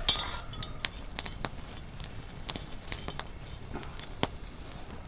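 Wood campfire crackling, with irregular sharp pops several times a second and a brief louder hissing burst right at the start.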